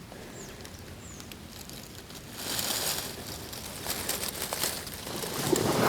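A few faint high bird chirps, then about two seconds in a louder rush of noise: a flock of ducks flushing off the pond, wings flapping as they take off.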